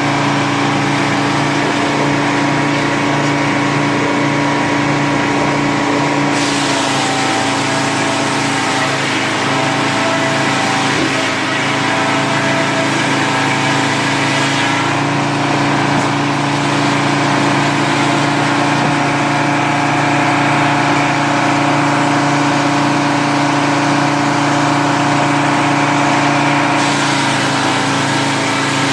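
Small engine running steadily at a constant speed, its pitch holding level throughout.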